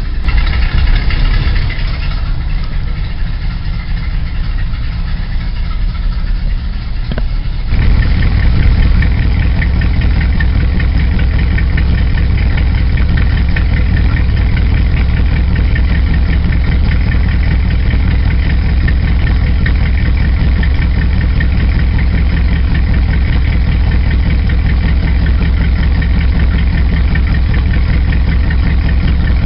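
Pickup truck engine idling steadily, run to warm the oil before an oil change. It gets louder about eight seconds in and stays at that level.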